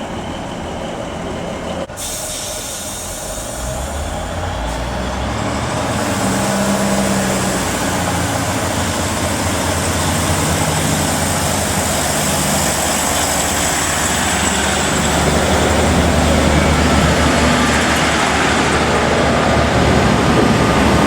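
Diesel multiple-unit train running, its noise growing louder from about two seconds in.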